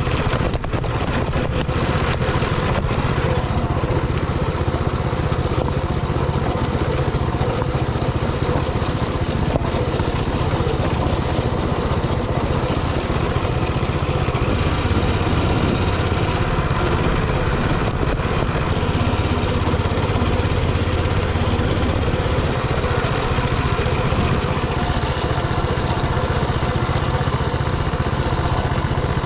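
Coleman mini bike's single-cylinder Predator 224 engine running steadily under a rider, with a few rattles and knocks in the first seconds.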